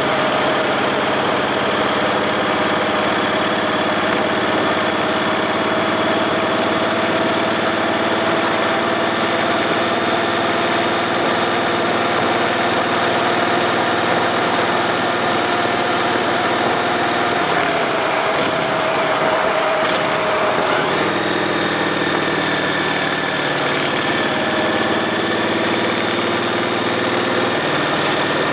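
Motorcycle engine idling steadily; its note wavers and shifts for a few seconds about two-thirds of the way through, then settles into a steady idle again.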